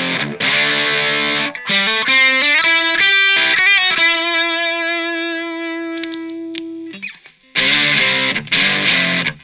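Electric guitar through a Fender Santa Ana Overdrive pedal with the gain turned up full: heavy distorted chords, then a short run of single notes ending in one long held note that rings out and fades over about three seconds. The distorted chords start again near the end.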